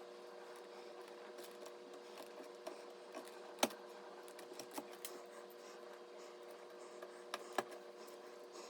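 Computer parts being handled during assembly: scattered light clicks and taps, one sharp click about a third of the way in and two more near the end, over a steady faint hum.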